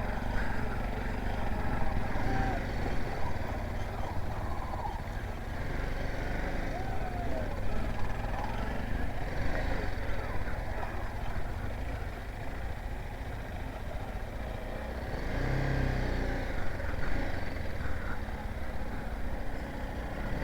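BMW G 310 GS single-cylinder engine running steadily at low speed as the bike crosses a slippery water crossing.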